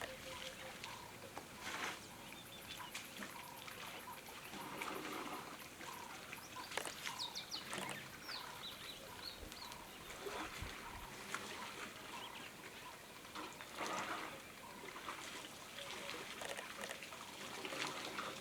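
Water trickling and splashing irregularly at a water hole, with a row of short, evenly repeated chirps.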